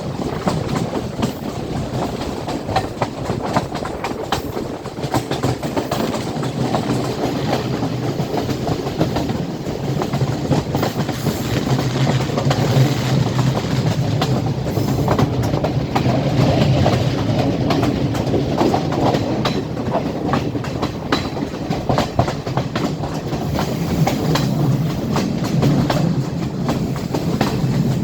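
Train running along the track, its wheels clattering over the rail joints above a steady rumble of the carriage.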